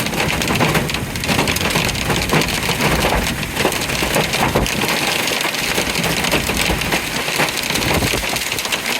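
Hail and heavy rain pelting down, a steady dense clatter of many small sharp impacts.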